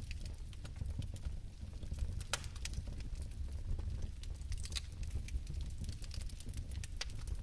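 Fireplace fire crackling, with irregular small pops and snaps over a steady low rumble; a sharper pop comes about two and a half seconds in.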